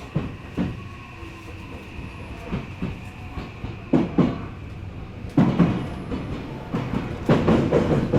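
Odakyu electric commuter train running on the line, its wheels clacking over rail joints and points in irregular knocks over a steady running noise; the running noise gets louder about two-thirds of the way through.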